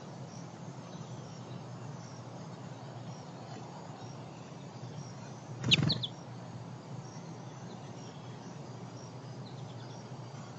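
Small birds chirping faintly over a steady low background hum. About halfway in comes one brief, louder burst: a sharp bird call with a low bump under it.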